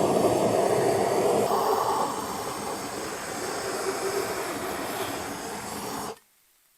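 Steady rushing noise, louder for the first two seconds, that cuts off abruptly about six seconds in.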